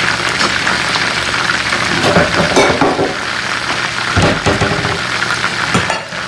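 Chicken thighs sizzling and crackling in hot oil in an electric skillet, with a few dull knocks about two and four seconds in.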